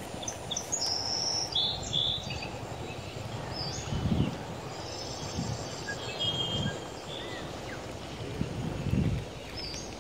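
Rural outdoor ambience: small birds chirping now and then over a steady low background noise, with a few soft low thumps.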